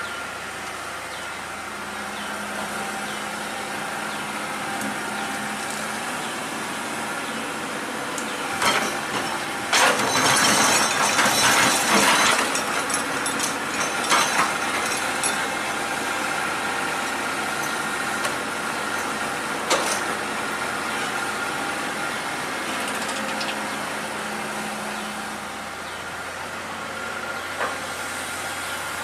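Excavator's diesel engine running steadily while the machine works, with a loud rough burst of scraping or falling material lasting about two and a half seconds, about a third of the way in, and a few sharp knocks.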